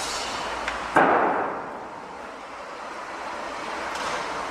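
A single loud bang on a construction site about a second in, dying away within about half a second, over steady background noise.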